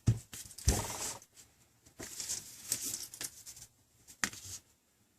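Handling noises on a workbench: a few sharp knocks and clicks with rustling as the tablet is handled, stopping about four and a half seconds in.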